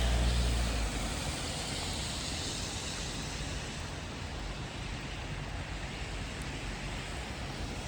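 Steady hiss of falling rain, with the low rumble of a passing vehicle fading out about a second in.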